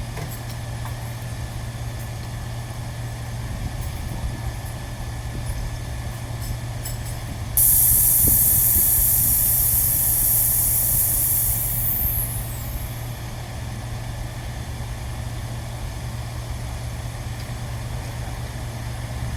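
A burst of pressurised air hissing out for about five seconds. It starts sharply, then falls away and stops, over a steady low hum.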